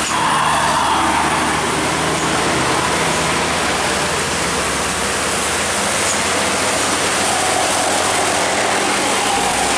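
A bus's engine humming and its tyres hissing on a wet road as it goes by, over the steady hiss of rain. The engine hum fades over the first half, while a tone slides slightly lower and then holds.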